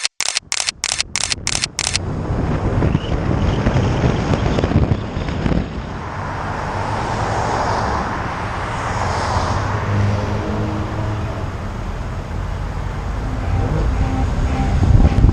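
A quick run of sharp clicks, about five a second, for the first two seconds, then steady outdoor road noise: traffic rumble with wind on the microphone.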